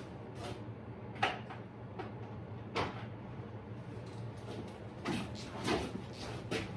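Socket wrench being fitted and worked on a fastener on a motorcycle radiator hose: a few scattered metallic clicks and knocks, bunched together near the end, over a steady low hum.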